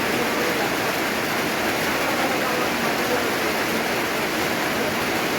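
Heavy rain falling steadily on a corrugated tin roof, a dense, even patter.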